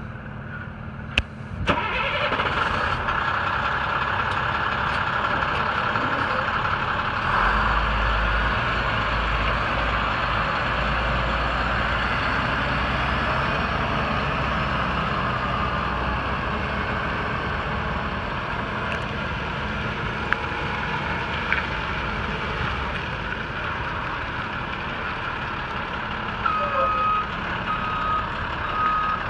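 2003 International DuraStar 4300 truck's diesel engine starting about two seconds in, then running steadily. Near the end the truck's reverse alarm begins beeping, about two beeps a second.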